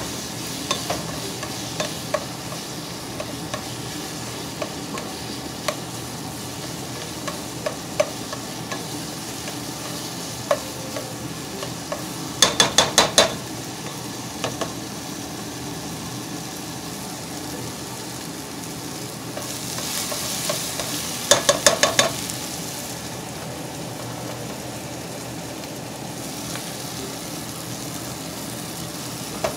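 Sliced onions and tomatoes sizzling in a nonstick pot, with the light knocks and scrapes of a utensil stirring them. Twice, about a third and three quarters of the way in, a quick run of five or six sharp taps against the pot.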